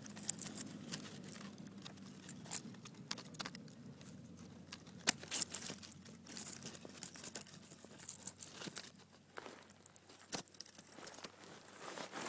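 Scattered rustling and crackling with a few sharp clicks: hands working sticks, string and leaf litter while setting a snare trap.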